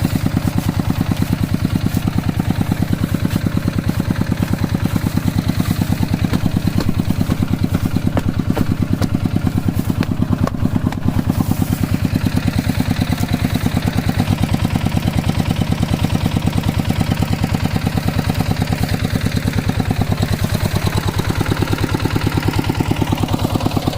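Two-wheel hand tractor's single-cylinder diesel engine running steadily, with an even, rapid pulse of firing strokes throughout.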